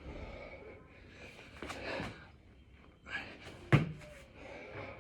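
Hard, heavy breathing of a man working through six-count burpees, with a sharp thud about three-quarters of the way in as his body lands on the floor.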